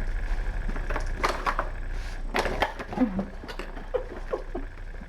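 Kittens playing, with scattered clicks, scrabbling and rattling from paws and toys and a few brief squeaks that fall in pitch, over a steady low hum.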